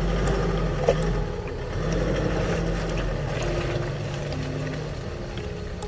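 Vehicle engine running steadily at low revs as it crawls over a rough track, with a sharp knock about a second in and scattered light clicks.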